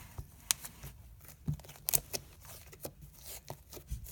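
Slime being handled and squeezed by hand, giving irregular sharp clicks and small pops, the loudest about half a second in and just before two seconds in.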